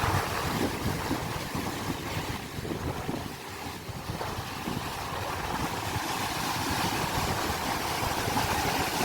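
Sea waves surging and washing on the shore, with wind rumbling on the microphone; the surge eases a few seconds in and then builds again.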